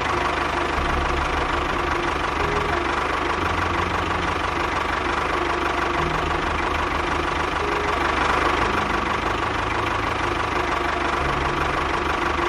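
An engine running steadily, with a knocking, chugging beat and a steady whine over it.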